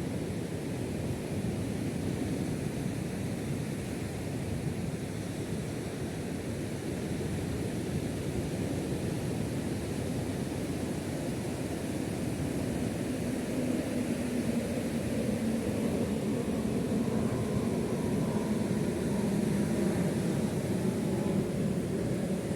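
Steady low rumbling noise with a faint engine drone that grows slowly louder through the second half.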